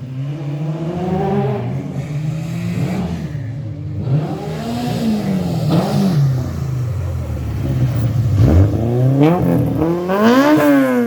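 Historic rally car engine revving hard through a stage, its pitch rising and dropping with throttle and gear changes. Near the end it climbs steeply to a peak as it passes, then falls away.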